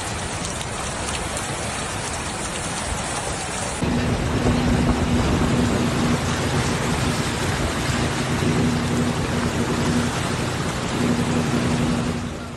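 Heavy rain pouring down, a steady hiss. About four seconds in it cuts to louder rushing floodwater, with a steady low hum beneath it.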